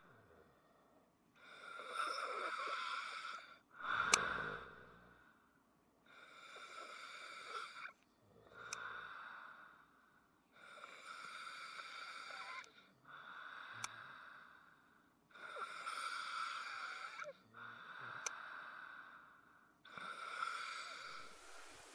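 A sleeping person breathing noisily, with a wheezy, snore-like breath about every two seconds. A sharp click comes every four to five seconds.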